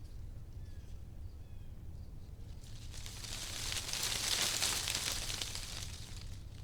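Wind gusting through tree leaves: a steady low rumble with a rustling rush that swells about halfway through and fades again. A few faint short bird chirps in the first second or so.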